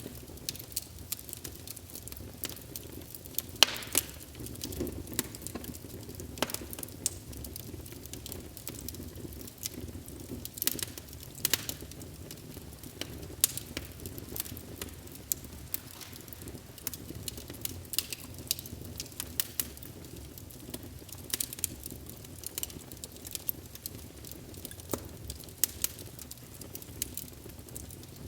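Wood fire burning in a fireplace, with a steady low rumble of flames and frequent irregular sharp crackles and pops, one louder pop about four seconds in.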